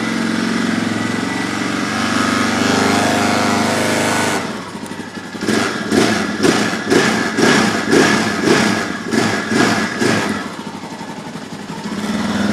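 Yamaha Raptor 660's single-cylinder four-stroke engine running on a cold start. It idles steadily at first, then from about five seconds in its speed rises and falls rhythmically, about twice a second, before settling back to idle near the end.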